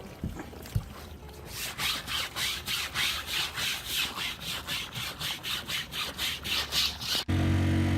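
Rhythmic scrubbing, about four even strokes a second, as green growth is scrubbed off the boat's canvas sides with water. Near the end it cuts suddenly to a louder, steady engine drone.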